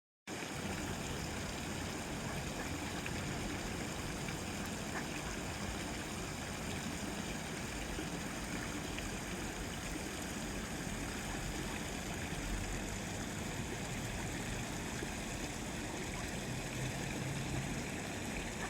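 Steady rush of running water, an even unbroken noise that starts suddenly just after the beginning.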